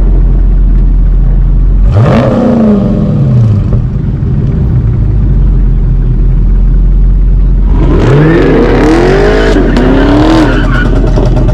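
Muscle car's V8 engine idling with a deep, steady rumble. It is revved once about two seconds in, the pitch rising and dropping back, then blipped several times in quick succession about eight seconds in.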